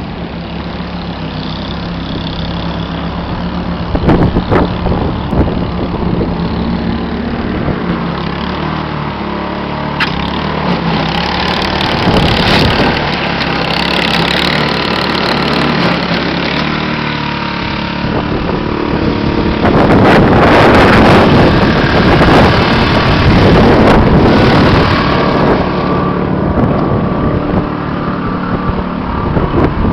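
Soviet outboard motor running steadily on a boat, growing louder and rougher about two-thirds of the way in.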